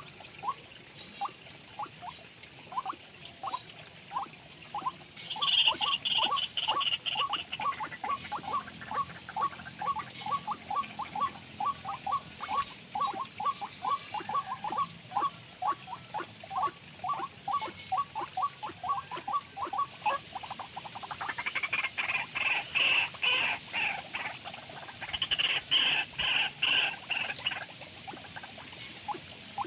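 Bird calls: a steady series of short chirp notes, about three a second, with three bursts of a higher, rapid trill.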